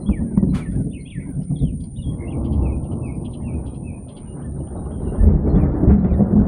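Thunder rumbling long and low, swelling again about five seconds in, while birds chirp during the first few seconds.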